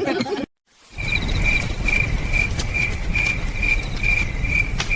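A cricket chirping steadily, about two chirps a second, over a low rumble of outdoor background noise. The chirping begins about a second in, right after a brief silent break.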